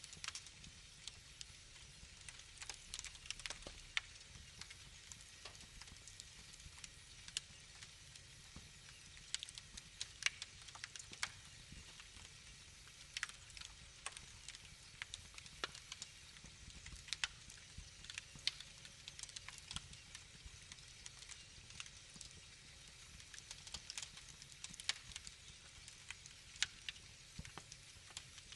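Wood fire crackling in a fireplace: irregular pops and snaps over a low, steady rumble of the flames.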